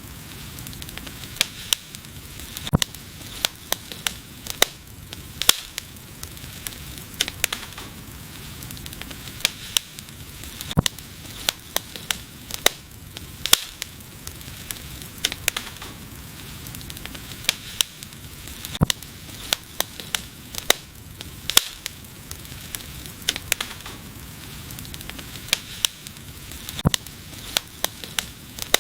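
Wood fire burning with irregular sharp crackles and pops, several a second, over a steady low hiss of the flames.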